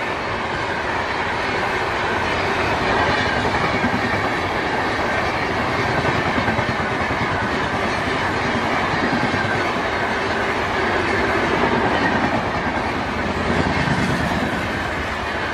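Passenger coaches of an express train passing close by at high speed: a loud, steady rolling noise of steel wheels on the rails with rapid clattering.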